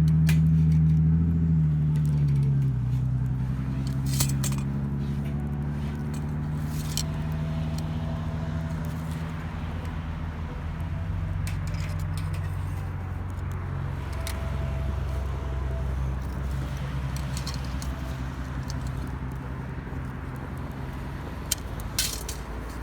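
A nearby engine running steadily at a low, even pitch, settling slightly lower about two seconds in, with scattered sharp clicks and light metallic clinks over it.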